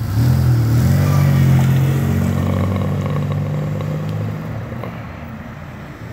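A road vehicle's engine running close by, loudest at first and fading away over about four seconds as it moves off.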